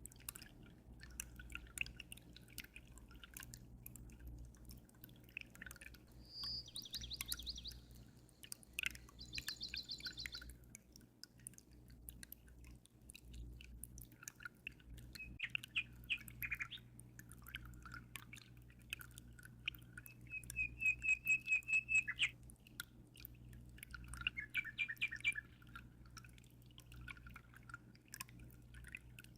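Songbirds singing in short phrases: fast trills, then a run of loud repeated chirps about two-thirds of the way through. Water drips and trickles throughout over a steady low hum.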